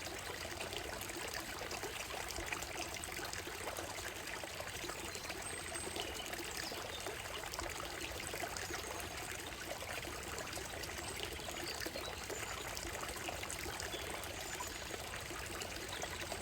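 Shallow stream running steadily over a gravel and stone bed, a continuous trickling and splashing of water, with a few faint high bird calls in the trees.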